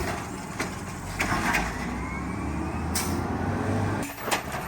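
Garbage truck's engine running steadily, with a few sharp knocks and clanks from the collection work and a faint rising whine in the middle. The engine hum drops away about four seconds in.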